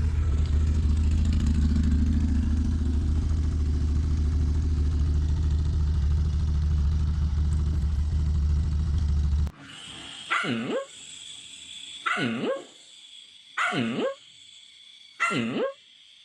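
A steady low rumble that cuts off suddenly about nine and a half seconds in. After it, a dog barks four times, about one bark every second and a half.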